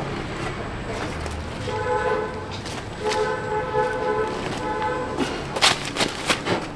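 A steady horn-like tone sounds twice: a short blast, then a longer one of about two seconds. A few sharp knocks follow near the end.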